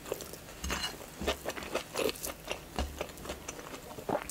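Close-miked chewing of a mouthful of naan and curry, with soft wet smacks and small crunches coming irregularly, about three a second.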